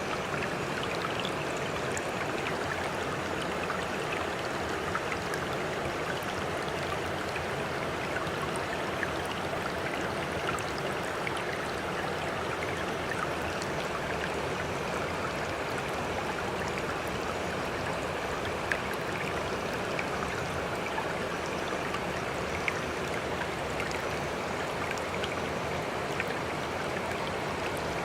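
Steady, even rushing of running water, like a stream, with a few faint scattered clicks or drips.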